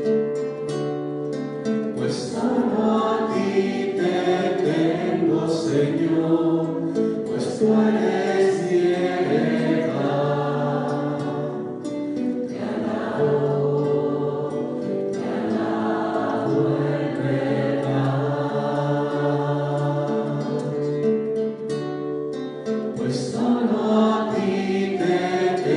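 Choir singing a Christian worship song with long held notes.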